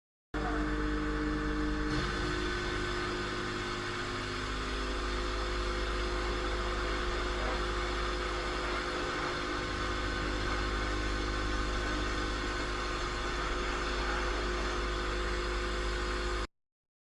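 Car engine and road noise heard from inside a moving car, steady throughout, with a shift in the engine's tone about two seconds in. It starts and stops abruptly.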